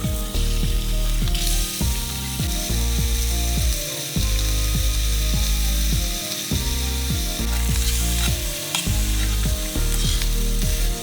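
Meat sizzling in a small stainless-steel pot over a campfire, a steady frying hiss that builds about a second and a half in. Background music plays underneath.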